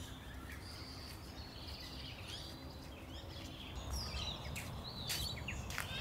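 Faint chirping and warbling of several small wild birds, short high notes coming thick and fast, over a steady low background rumble.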